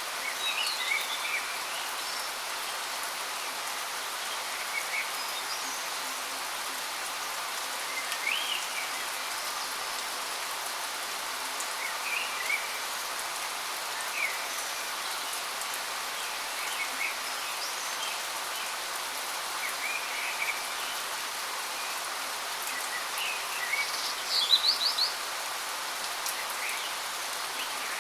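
Steady rushing hiss of a waterfall, with small birds chirping every few seconds over it and a louder run of quick notes near the end.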